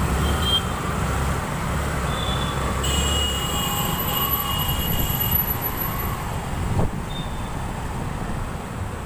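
Motorcycle running on the road amid traffic noise, a steady low rumble. A short knock comes about seven seconds in, after which the sound is a little quieter.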